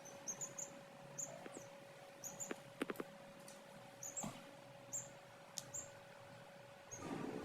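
Chicks peeping: about a dozen short, high chirps scattered through, with a few sharp clicks a little under three seconds in and a steady faint hum underneath.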